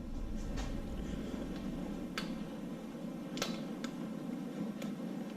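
A few light, sharp metal clicks and taps from hand tools and engine parts being handled, scattered over a steady background hum.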